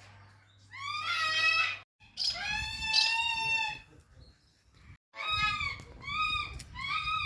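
A large bird calling loudly: two drawn-out harsh calls, then a run of short arching calls at about two a second.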